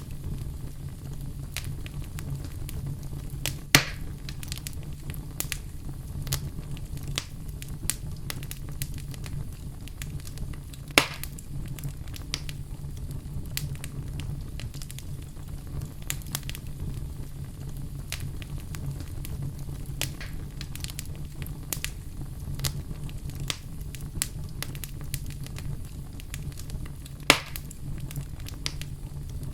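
Wood fire in a fireplace crackling steadily over a low, even rumble, with three louder pops spread through.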